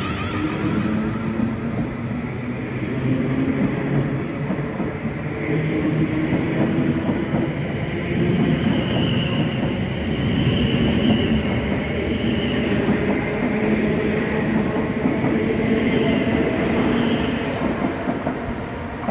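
A train running past on the rails, a steady rumble of wheels and running gear that eases off near the end.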